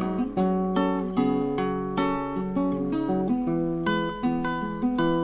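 Acoustic guitar playing the introduction to a slow song, plucked and strummed chords with a steady pulse, no singing yet.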